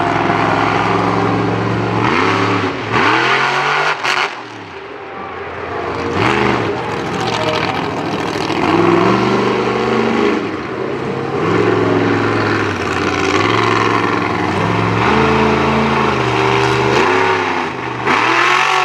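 Monster truck engine revving up and down again and again as the driver works the throttle through a two-wheel skills run. It drops back briefly about four seconds in, then climbs again.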